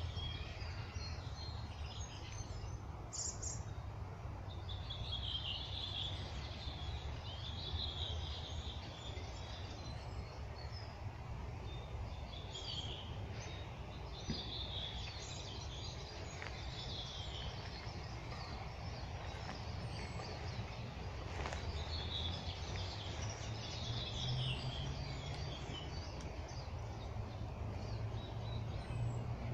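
Songbirds singing in a spring forest, short bright phrases every couple of seconds, over a steady low rumble.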